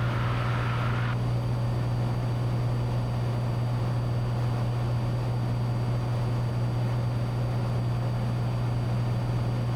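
Cessna 182T's six-cylinder Lycoming engine and propeller running steadily in cruise, a constant low hum heard inside the cabin.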